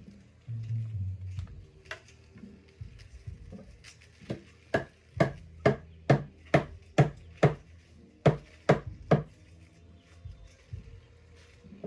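A run of about eleven sharp knocks in a steady rhythm, roughly two a second, with a short break partway through.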